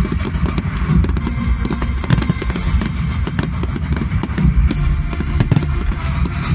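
Fireworks bursting in quick succession, many bangs and crackles, over loud show music with a heavy drum beat playing through the display's sound system.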